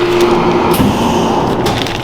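Food-processing machinery running with a steady hum, with clattering clicks and knocks over it.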